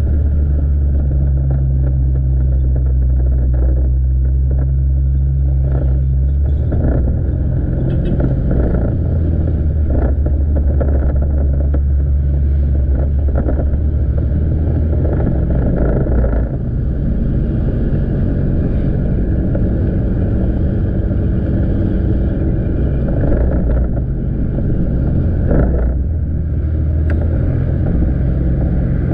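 Motorcycle engine running on the move, with steady road and wind noise. Its engine note shifts about six seconds in and again around sixteen seconds in.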